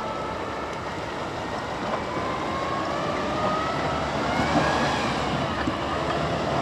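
Truck engine running hard, its pitch climbing over a couple of seconds as it revs up.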